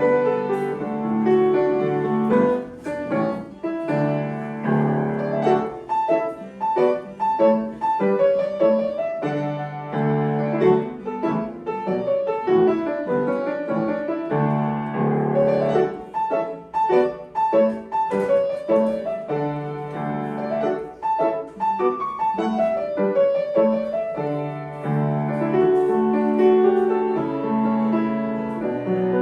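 Solo piano playing a lively piece, with a busy passage of quick, separate notes over held chords in the middle.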